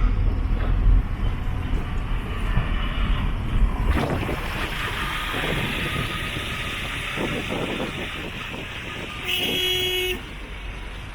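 Road traffic noise with engines running, and a vehicle horn honking once for about a second near the end.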